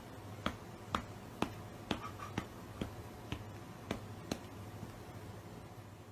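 A run of about ten sharp clicks, roughly two a second, evenly spaced and stopping a little over four seconds in, over a faint low hum.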